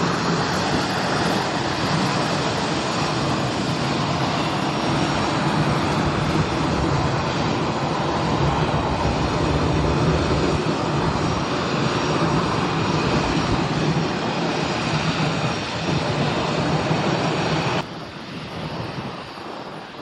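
Airliner engines running loudly and steadily as a plane passes close by. Near the end the sound drops off suddenly, leaving fainter wind-like noise.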